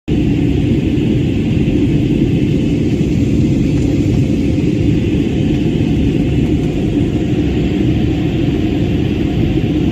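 Steady rumble of an airliner's engines and airflow heard from inside the passenger cabin, a loud even roar with no changes.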